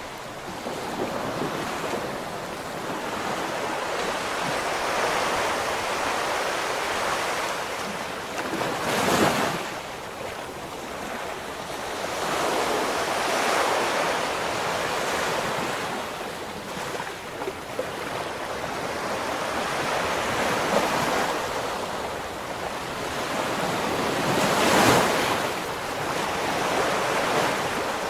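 Ocean waves breaking and washing on the shore, a rushing hiss that swells and ebbs, with two louder breaks about nine seconds in and near the end. Some wind on the microphone.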